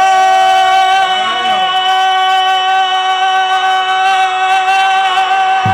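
A voice holding one long high note at a near-steady pitch for several seconds, with a slight waver, breaking off at the end.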